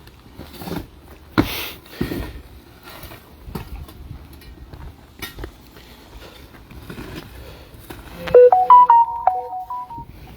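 Scattered faint knocks and clicks, then about eight seconds in a short electronic chime of several overlapping steady tones, like a ringtone or doorbell jingle, which is the loudest sound.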